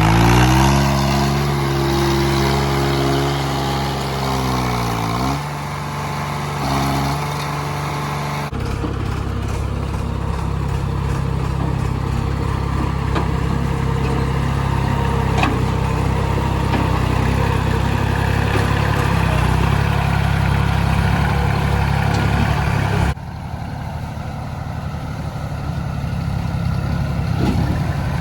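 Tractor diesel engines running under load during a mud recovery, the engine note changing in speed, with abrupt shifts in the sound a few times.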